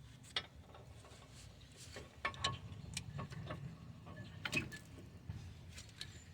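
Faint, scattered metallic clicks and knocks of a CV axle and front suspension parts being handled as the axle's outer end is worked toward the hub assembly, with the loudest knocks about two and a half and four and a half seconds in.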